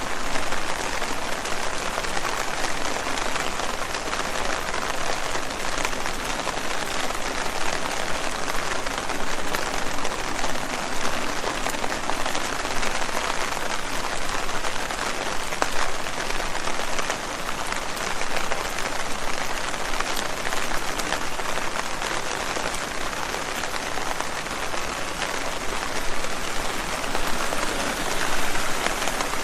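Steady rain pattering on leaves, a dense, even hiss of many small drop hits.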